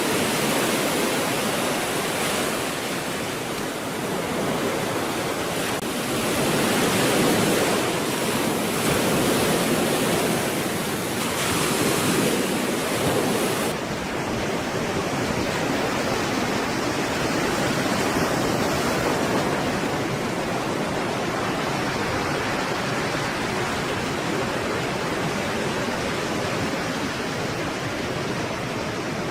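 Stormy sea waves: a steady surf roar that swells and ebbs every few seconds. About halfway through it abruptly loses its hiss and becomes duller and more even.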